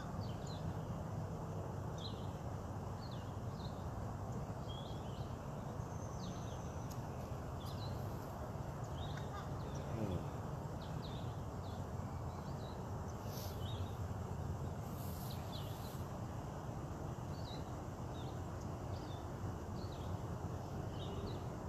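Songbirds chirping in short, scattered calls over a steady low rumble of distant road traffic.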